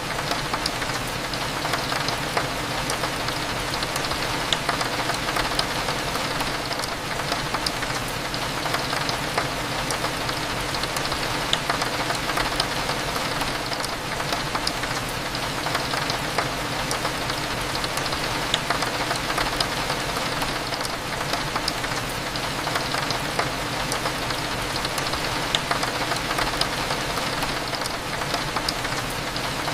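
Steady rain pattering, with scattered single drop ticks, over a constant low hum of cafe background.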